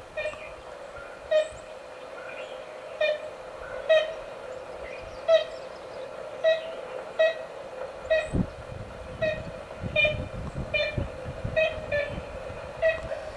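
Ivory-billed woodpecker giving short, evenly pitched 'kent' calls, about fourteen of them repeated roughly once a second over a steady hiss.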